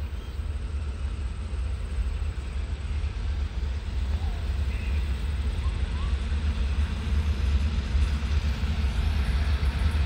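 Low rumble of a distant diesel train approaching, growing slowly louder. A bird chirps faintly a few times.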